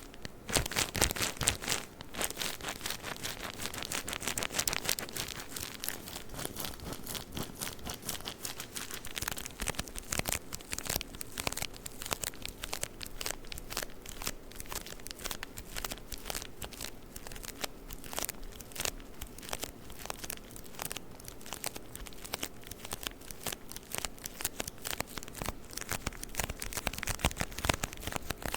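Tissue paper being crinkled and rustled, a dense run of fast crackles throughout.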